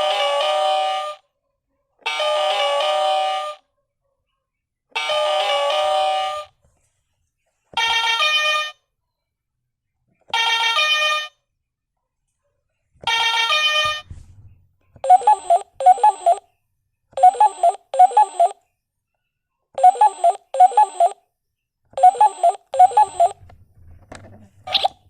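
Electronic ringtone sounds. Six separate melodic tone phrases, the first three longer, are followed by a telephone ringing in four double rings.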